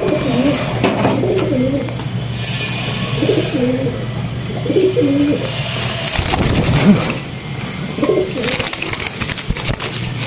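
Pigeons cooing, several low wavering coos in separate groups over a steady low hum, with stretches of rustling hiss in between.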